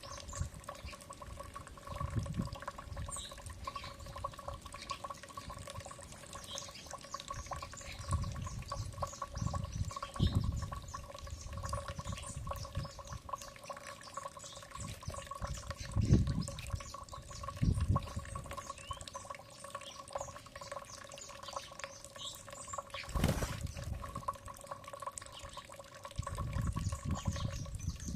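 Faint, scattered chirps of small birds over a steady hum, with repeated low rumbles and a single sharp knock about 23 seconds in.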